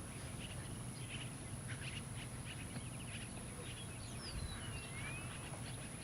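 Outdoor ambience with birds chirping: scattered short chirps throughout and a few falling whistled calls about four to five seconds in, over a steady low background noise.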